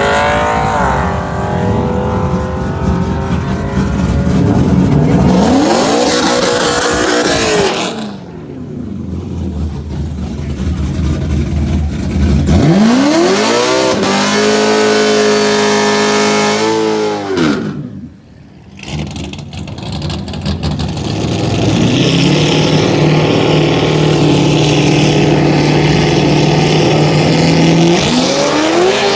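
Drag-racing engines revving and accelerating, their pitch climbing and falling several times. The level drops briefly about eight and eighteen seconds in, then a steady engine note holds through the last third before climbing again at the very end.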